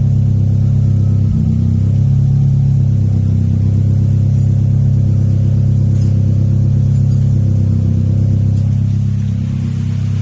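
Honda D15B 1.5-litre four-cylinder engine, fitted with aftermarket camshafts, running steadily at idle with a loud, even drone. It dips slightly near the end.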